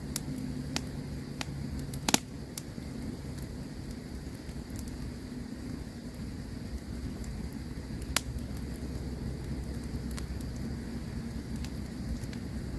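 Campfire crackling: scattered sharp pops and snaps over a steady low rumble of burning. The loudest pop comes about two seconds in, another at about eight seconds.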